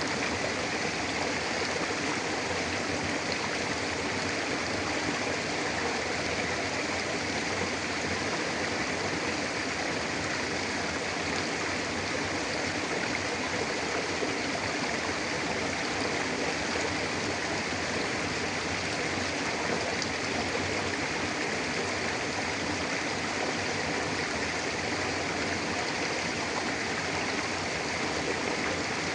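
Mountain river flowing over rocks: a steady, even rushing of water with no breaks.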